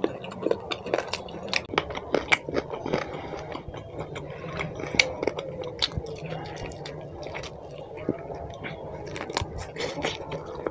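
Close-miked chewing of chicken curry, with wet mouth smacks and many irregular sharp clicks.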